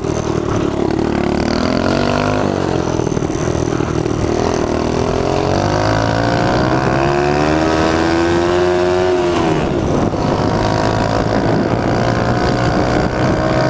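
A mini bike's small engine with a three-speed automatic-clutch gearbox revs under way. Its pitch climbs for several seconds, drops sharply about nine and a half seconds in, then comes back up and holds steady.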